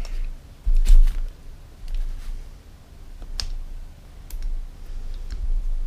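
Sporadic sharp clicks and small knocks of hand work on the engine's parts, a second or so apart. The loudest comes about a second in, with a low bump.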